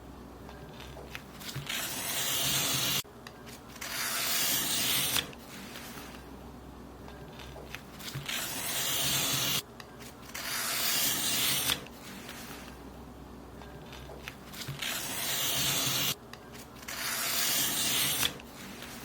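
Paper being cut in long strokes: about five rasping strokes, each lasting a second or two and ending abruptly, loosely in pairs with short quieter gaps between them.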